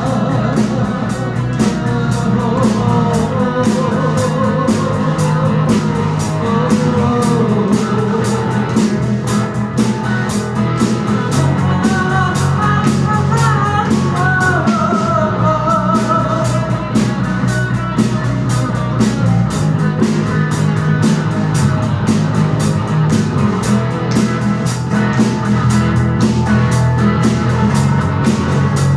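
Live rock band playing an instrumental passage with no singing: electric guitar melody lines over bass and a drum kit keeping a steady beat on the hi-hat.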